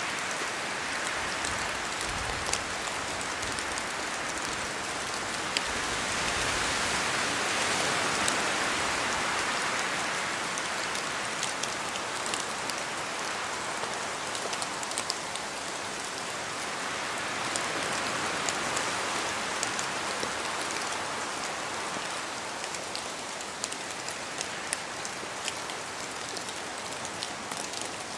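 Steady rain in a forest, with many individual drops ticking as they fall from the trees. The rush of rain and wind swells louder twice, about a quarter and about two-thirds of the way through.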